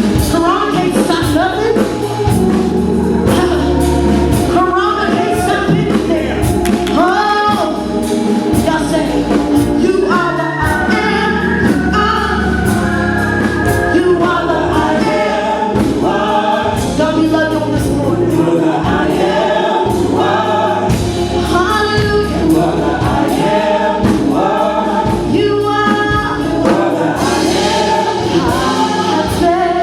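Gospel music: singers and a choir over a band with steady bass.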